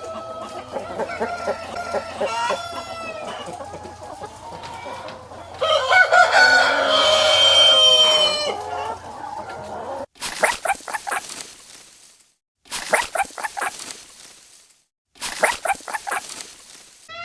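Chickens clucking and a rooster crowing, with one long crow about six seconds in. About ten seconds in the sound cuts to three separate bursts of fast rattling calls, each about two seconds long.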